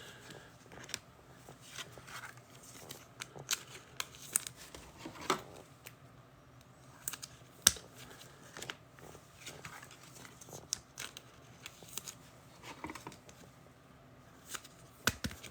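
Trading cards and pack wrappers being handled: scattered light clicks, taps and soft rustles at irregular intervals.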